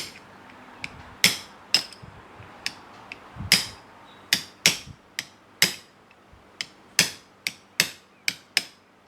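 A small hammer tapping a punch to drive out the little serrated cross pin that holds the seat-lift arm to a power-seat elevation gearbox: about fifteen sharp metallic taps, irregularly spaced, each with a brief ring.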